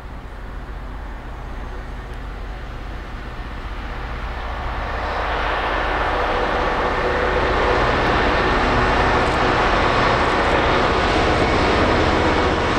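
A train approaching and then running past: a broad rushing noise that builds over about three seconds, then holds loud and steady with faint tones in it.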